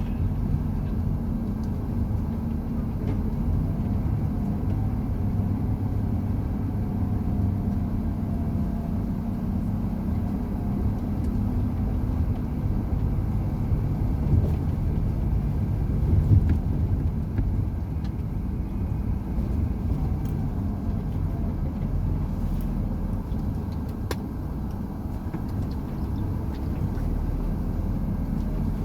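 Truck engine running steadily with tyre and road noise while driving, a low, even drone.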